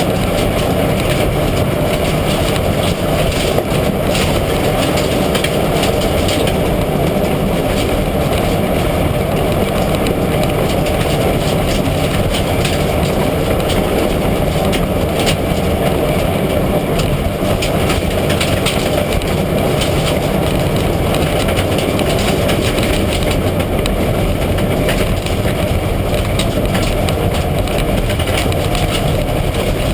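Mitsubishi Lancer Evolution IX rally car at speed on a stage: loud, steady engine, tyre and road noise, with many small knocks and rattles.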